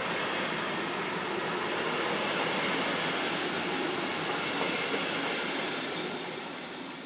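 A train passing on the line: steady rolling noise of wheels on rail that starts to fade about six seconds in as it moves away.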